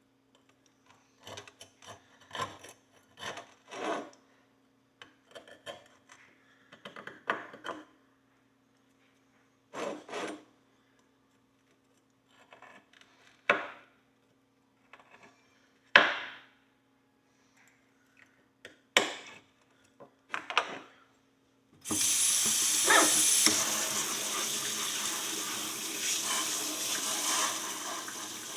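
A metal pick scraping and scratching at the dirt and rust on an old iron horseshoe in short, separate strokes. About 22 seconds in, a loud, steady water-jet spray starts, blasting the shoe.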